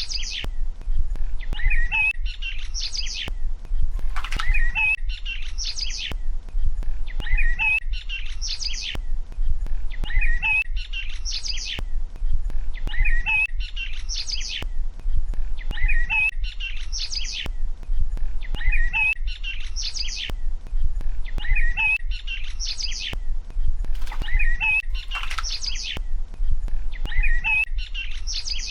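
Bird chirps in a short phrase that repeats almost identically about every three seconds, like a looped nature-ambience recording, over a steady low hum.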